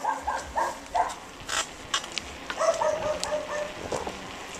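Dog barking: a quick run of four or five short barks, then one longer, drawn-out bark about two and a half seconds in.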